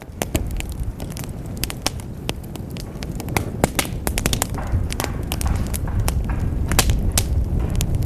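Wood fire in a fireplace crackling, with frequent sharp pops and snaps over a low rumble of burning.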